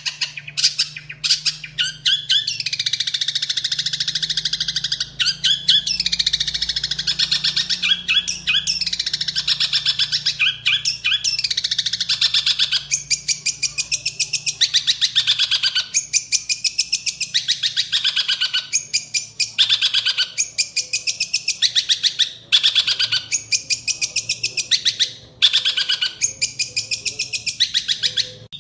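Long-tailed shrike (cendet) singing loudly and fast: long runs of rapid, harsh chattering notes broken by brief pauses every second or two, its song filled with sparrow-like chirps.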